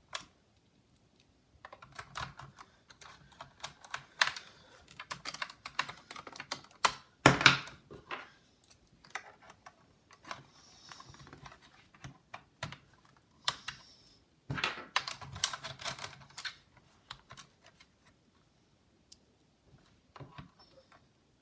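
Irregular small clicks, ticks and taps of a precision screwdriver and screws against a laptop's plastic case as screws are driven in, with one sharper knock about seven seconds in and a busy run of clicks about two-thirds of the way through.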